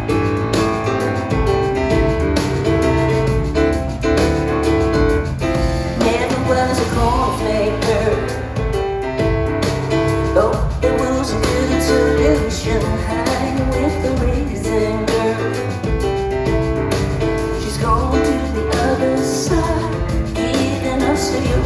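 Live pop-rock music: piano with band backing and a woman singing.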